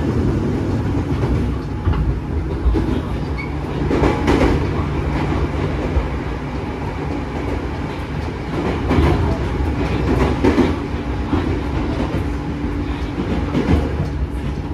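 Onboard running noise of a JR 205 series 3100 subseries commuter train: a steady traction-motor and gear hum under the wheel-and-rail noise, with the wheels clacking over rail joints several times. The sound echoes inside a tunnel for most of the stretch.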